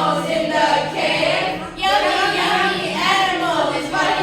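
A group of children singing together in unison, with a short break about two seconds in.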